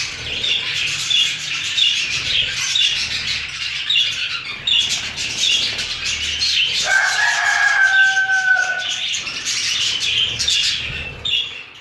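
Several budgerigars chattering with quick, repeated high chirps, with one longer drawn-out call at about seven seconds in.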